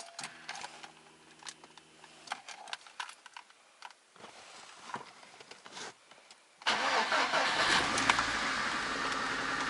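Faint clicks and a brief low hum, then about two-thirds of the way in a Lada VAZ 124 16-valve engine starts and keeps running steadily, fired up after reassembly to check for its persistent knock.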